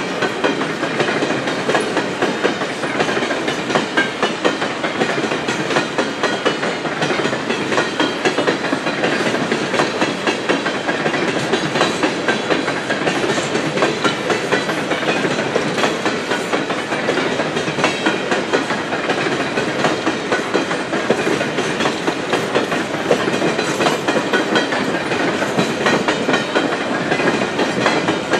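Empty coal gondola cars of a long freight train rolling past, steel wheels clicking over rail joints in a dense, steady clatter.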